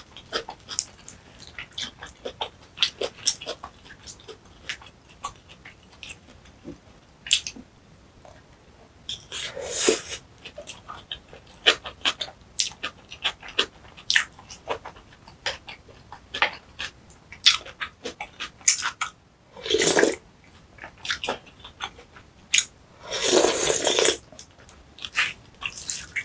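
Close-miked eating sounds of a person chewing spicy kimchi bibimbap: many short wet chewing and mouth clicks. Three longer, louder rushes of noise stand out, about ten seconds in, about twenty seconds in, and a longer one near the end.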